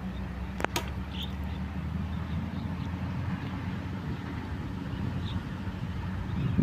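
A steady low mechanical drone, like an engine running, with one sharp click just under a second in.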